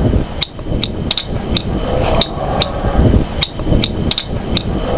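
Sharp clicks repeating evenly, about two or three a second, over a low rumbling noise: an unidentified sound recorded outdoors at night.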